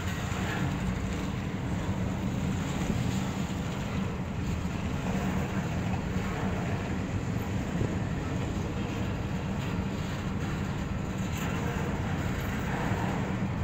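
Double-stack intermodal freight train of well cars rolling past: the steady rumble of steel wheels on the rails.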